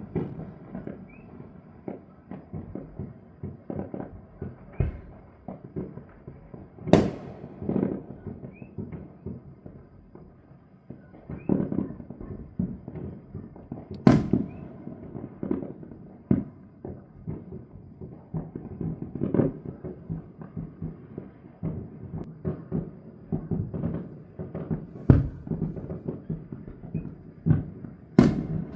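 Fireworks going off in irregular volleys: many pops and bangs, some much louder sharp reports, with a few brief whistles.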